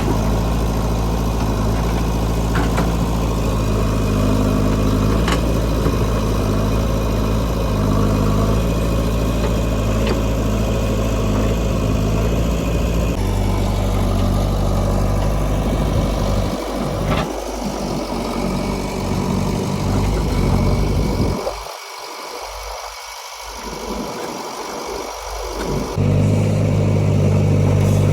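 Diesel engine of a JCB 3DX backhoe loader running at a steady speed, with a few faint knocks. It drops quieter for a few seconds near the end, then comes back at full level.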